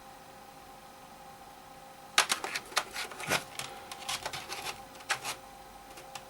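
Macintosh Classic's internal floppy drive clicking and rattling irregularly for about three seconds as it tries to read at startup, over a faint steady hum. The drive is not working, in the owner's view.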